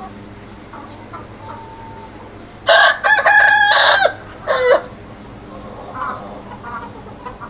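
A rooster crowing once, about three seconds in: a loud pitched call of about a second and a half ending in a short note that drops in pitch. Fainter chicken clucks follow near the end.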